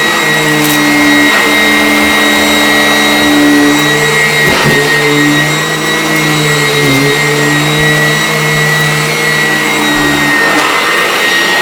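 Vacuum cleaner running steadily with a high whine over its motor hum. The hum's pitch sags briefly about four and a half seconds and seven seconds in, as the load on the motor changes.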